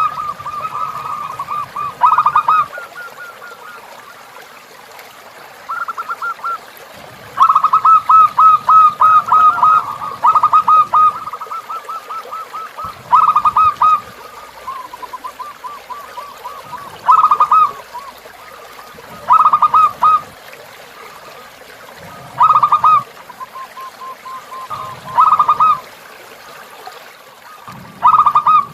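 Zebra dove (perkutut) cooing in repeated bursts of quick rolling notes every few seconds, over a soft, steady flow of river water.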